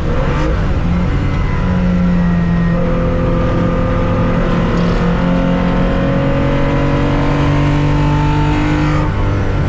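The 1965 Porsche 911 2.0's air-cooled flat-six, heard from inside the racing car, pulls hard under load with its pitch rising steadily through a gear. It drops in pitch at an upshift about nine seconds in.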